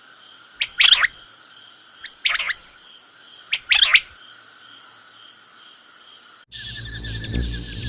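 A bird calling repeatedly, a short loud call about every second and a half, over a steady insect drone. About six and a half seconds in, the sound cuts to a rapid, fast-pulsing trill with a low rumble underneath.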